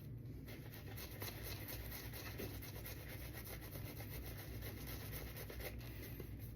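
Shaving brush with a synthetic knot working thick shaving-soap lather, a soft, continuous rubbing and swishing of bristles through dense paste.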